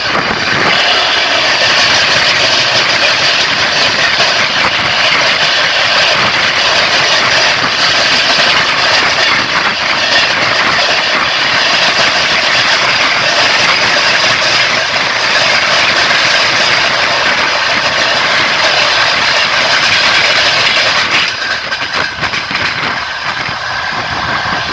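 Passenger train running along the track, heard from inside a carriage: steady rumble and rush of wheels on rails, easing somewhat near the end.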